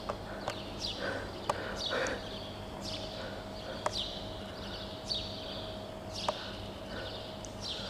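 Birds chirping: a run of short, high, down-slurred calls roughly once a second, with a few sharp clicks and a faint steady hum underneath.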